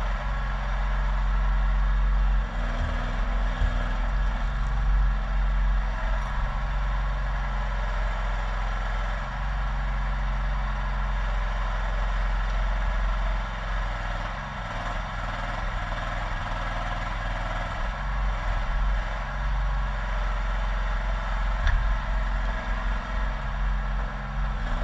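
Mini excavator engine running steadily under load while digging, its low note shifting every few seconds as the hydraulics work.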